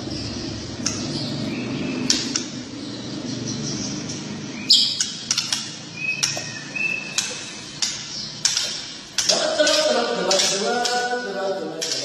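Songbirds giving rapid sharp, clipped calls and short whistles over a steady low background murmur. About nine seconds in, a man's voice starts chanting or singing over them.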